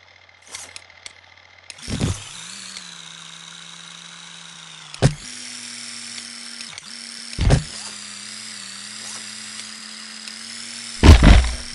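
Electric motor of an RC monster truck running with a steady whine that steps slightly higher about five seconds in, broken by a few sharp knocks and a louder clatter near the end.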